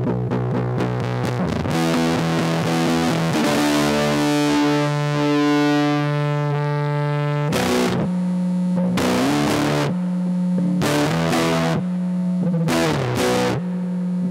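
Electric guitar (Squier Starcaster) through a Big Ear Pedals LOAF medium-gain fuzz pedal, playing a wooly fuzz tone. Quick picked notes at first, then a long chord left to ring for several seconds, then a run of separate chord strums about a second apart.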